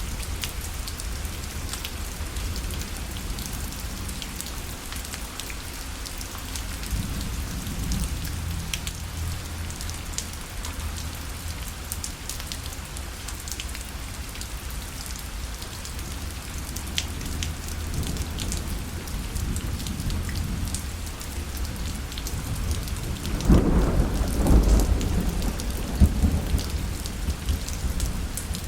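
Rain falling steadily on a parasol, with many sharp individual drop hits over a constant hiss. A louder roll of thunder rumbles from about 23 seconds in for a few seconds.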